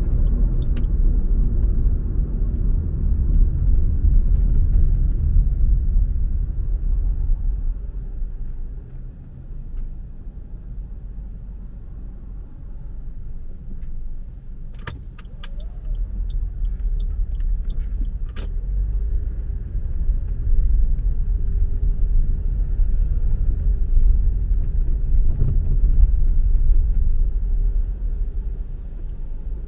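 Car driving on a road: a steady low engine and tyre rumble that drops off about eight seconds in and builds again after about nineteen seconds. A few sharp clicks come in the quieter middle stretch.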